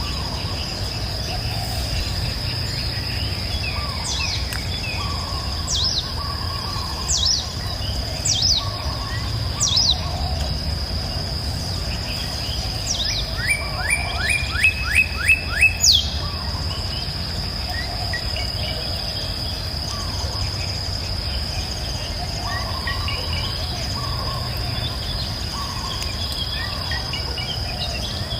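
Birds singing and calling: several sharp down-slurred calls spaced a second or so apart and, about halfway through, a quick run of about six rising notes, the loudest sound. Underneath, a steady high insect drone and a low steady rumble.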